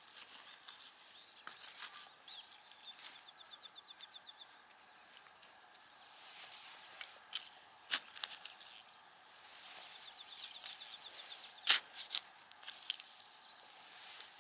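Small birds chirping, a short high call repeated many times with a couple of rapid trills, over faint outdoor background. A few sharp clicks or knocks break in, the loudest about three-quarters of the way through.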